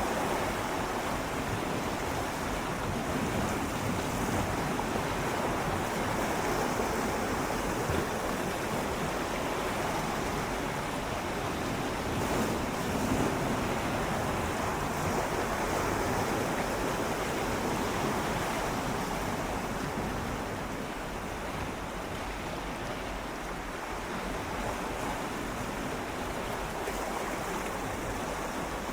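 Gentle sea waves swirling and lapping against shoreline rocks in a continuous wash, swelling and easing a little, with a slightly quieter stretch after about twenty seconds.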